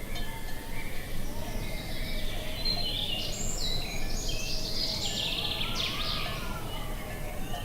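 Several wild birds chirping and trilling, busiest in the middle, over a steady low rumble of wind.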